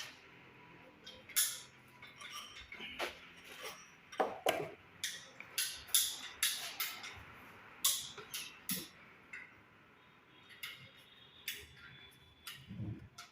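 A string of irregular sharp knocks and clicks, more than a dozen in quick succession, from hand work with hard objects, with a couple of duller thuds near the end.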